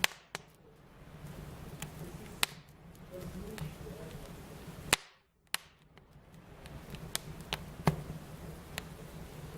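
Wood fire crackling, with scattered sharp pops over a low steady hiss; the loudest pops come at the start, about five seconds in and about eight seconds in.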